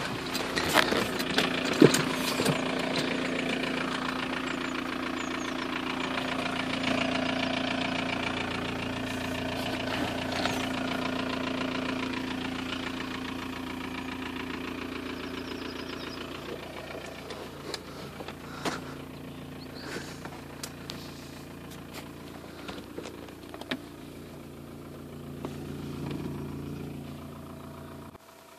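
Audi A6's 1.9 TDI four-cylinder turbodiesel running, heard from inside the cabin as a steady hum, with scattered clicks in the second half. The engine sound cuts off suddenly near the end.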